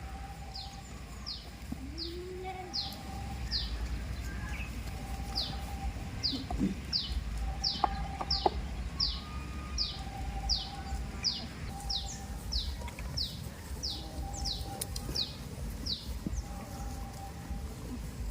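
A bird calling over and over with short, high notes that slide downward, about three every two seconds, pausing briefly near the end.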